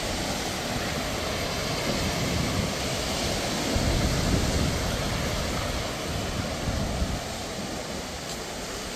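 Surf washing onto a sandy beach, a steady rush of waves that swells a little around the middle.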